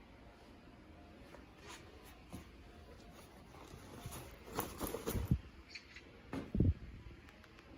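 Small clicks and a few soft knocks of objects being handled, with light rustling. The loudest knocks come around the middle and about two-thirds of the way in.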